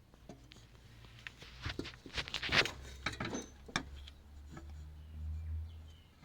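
A series of sharp knocks and clatter over a low steady hum, busiest about two to three seconds in.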